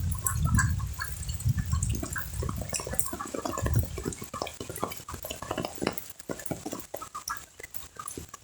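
Rain pattering on pond water: a dense scatter of drop clicks. Low wind buffeting on the microphone during the first few seconds dies away.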